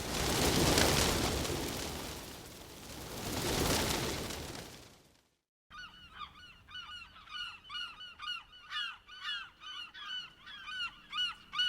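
A loud rushing noise swells twice and stops. After a short pause comes a quick run of short, repeated bird calls, about three a second.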